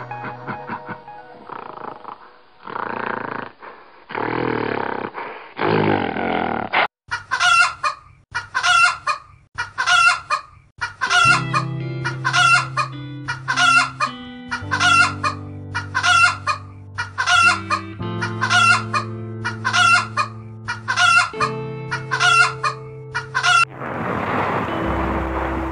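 Background music, then from about seven seconds in a bird's short calls, repeated steadily about every two-thirds of a second over the music.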